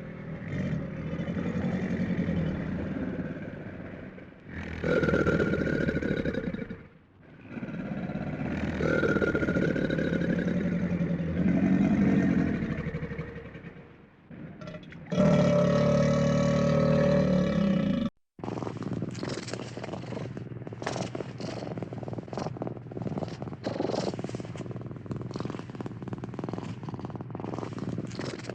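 Several loud animal calls in spells of a few seconds, the last a long held one; then, after a sudden cut, a cat purring steadily.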